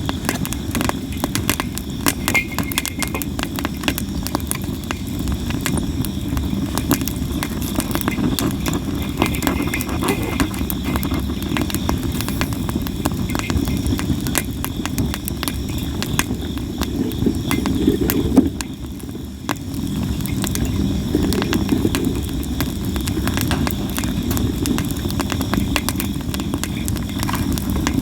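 Campfire of sawara cypress wood crackling and popping constantly, over a steady low rumble of the flames. The crackle eases briefly about two-thirds of the way through.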